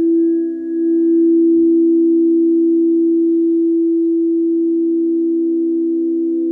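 Singing bowl ringing with one steady low tone. Its higher overtones fade within the first couple of seconds, a wavering in loudness settles about a second in, and the tone then slowly dies away.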